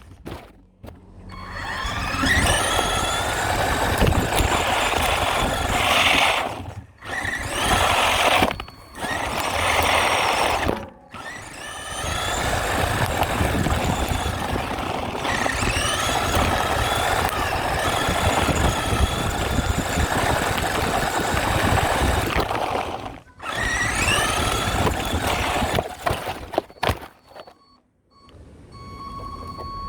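Radio-controlled truck's motor accelerating in repeated runs, its pitch rising each time, over a steady noisy rush. There are several short breaks where the sound cuts out abruptly.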